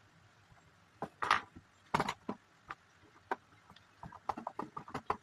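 Plastic LEGO bricks clicking and knocking as pieces are handled and pressed together. The loudest knocks come about a second in and again at two seconds, followed by a quick run of small clicks near the end.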